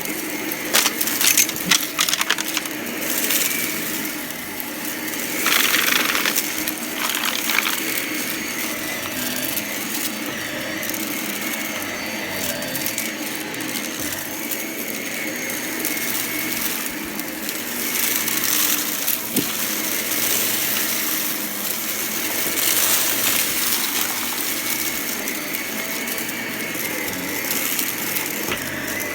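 Bagged vacuum cleaner running steadily while it sucks up scattered crunchy debris, which rattles and crackles through it in bursts.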